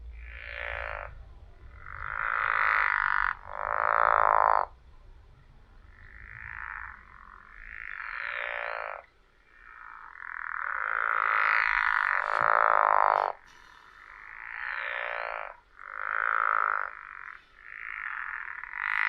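Recorded frog calls: a series of pulsed, trilling calls, each about half a second to a second and a half long, repeating irregularly and varying in loudness as if from several frogs.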